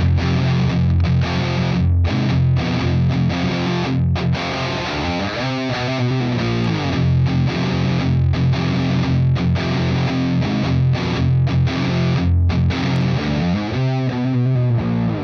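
Heavily distorted electric guitar riffing through a Does It Doom Baghdad preamp pedal, which emulates a Soldano head into a Matamp GT120 for a filthy sludge-metal tone. The riff is heavy in the low end and broken by a few short stops.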